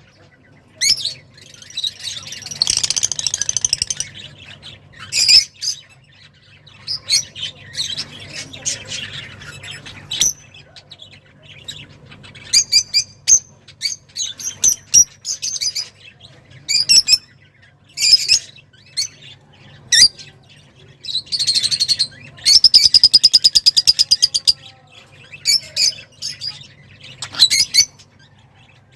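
A small cage songbird singing excitedly in repeated bursts of high chirps and short trills, with one long, fast trill near the end. A faint steady hum runs underneath.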